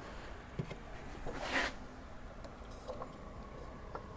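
A short burst from an aerosol can of CRC electrical contact cleaner: one hiss of about a third of a second, about one and a half seconds in. A few faint handling clicks sound around it.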